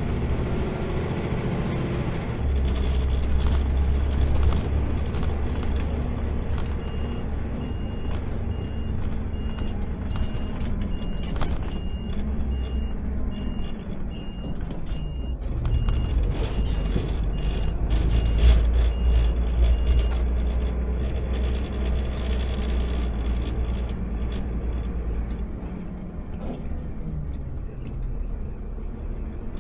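Automated sideload garbage truck's engine running, heard from the cab as a steady low rumble that swells and eases, with scattered clicks and knocks. Partway through comes a run of short high beeps at even spacing, a little more than one a second, for about thirteen seconds.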